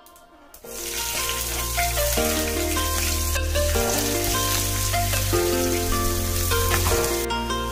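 Sliced red onion and green chillies sizzling in hot oil in a frying pan, the hiss starting about half a second in, with background music playing over it.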